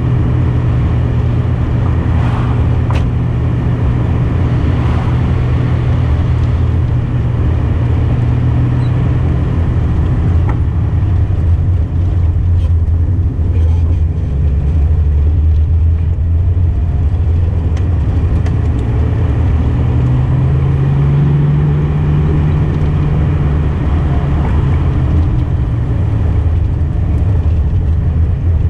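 Datsun 240Z engine running at steady cruising revs, heard with road and wind noise while driving. The engine note drops a little about ten seconds in and rises again around twenty seconds in.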